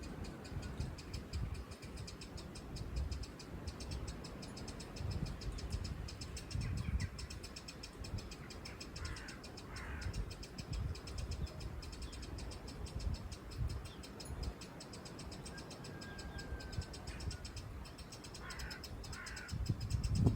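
Short, harsh bird calls in pairs, about nine seconds in and again near the end, over a steady low rumble of wind buffeting the microphone.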